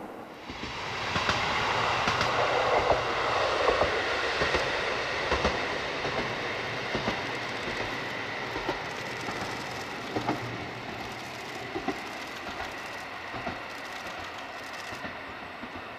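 Diesel train passing, its wheels clicking over the rail joints. The sound swells about half a second in, is loudest for the next few seconds as the train goes by, then slowly fades.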